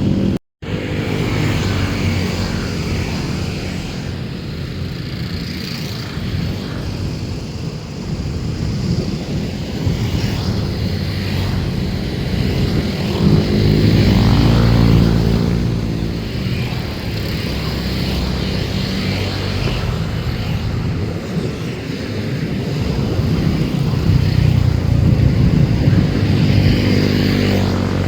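Steady low engine rumble that swells and eases, cut off for a moment about half a second in.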